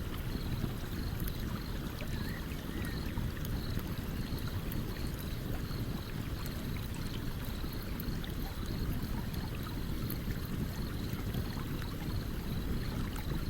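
A stream running steadily, its low rush the loudest sound, with faint scattered crackles and pops from a campfire. A faint high chirp repeats about two or three times a second throughout.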